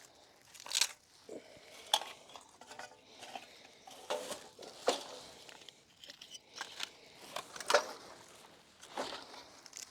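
Litter being gathered by hand: irregular sharp clinks and crunches of trash being picked up, with footsteps between them.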